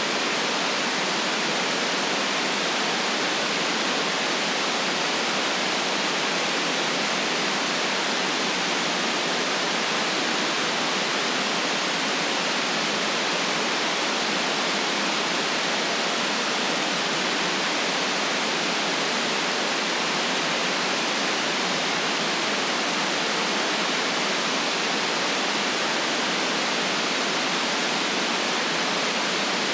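Steady, unchanging white noise: an even hiss without rhythm or variation, cut off below the bass and above the treble.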